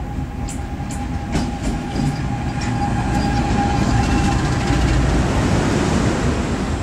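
Pakistan Railways diesel-hauled passenger train pulling in past the platform: the locomotive goes by and the coaches roll past close, with a few sharp clicks from the wheels in the first two seconds. A steady high whine sounds under it and fades out about four seconds in, while the rumble grows louder toward the end.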